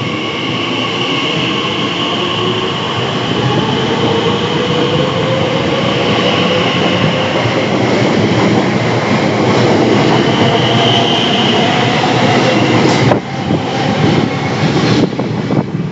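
Class 345 electric multiple unit pulling away from the platform. Its traction whine rises slowly in pitch as it gathers speed, over the rumble of wheels on the rails. The sound drops abruptly about thirteen seconds in.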